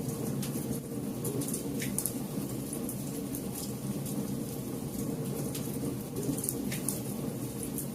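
Campfire burning with a steady low rumble and many irregular sharp crackles and pops of burning wood.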